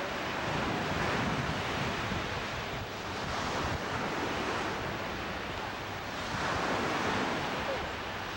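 Sea waves breaking and washing in, swelling and easing every few seconds, with wind rumbling on the microphone.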